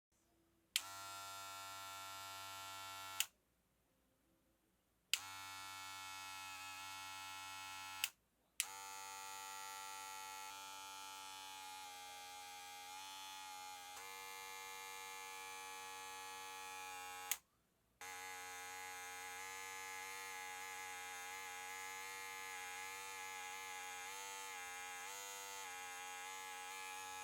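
Wahl Magic Clip cordless hair clipper with freshly fitted replacement blades, switched on and running with a steady buzz. It is clicked off and back on three times, running four times in all, the last two runs longer, with the pitch wavering a little during them.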